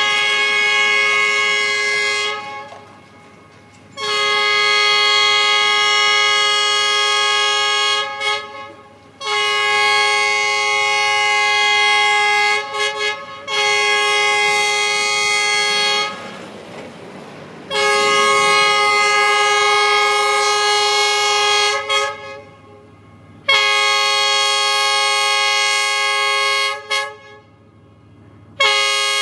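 Train horn sounding a long series of sustained blasts, about seven in all, each a steady chord of several notes held for two to four seconds with short breaks between, as the train approaches.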